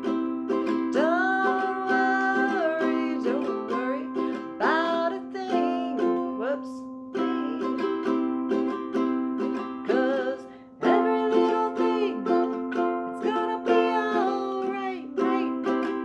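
Chords strummed in a steady rhythm on an acoustic string instrument, with a voice singing along in phrases.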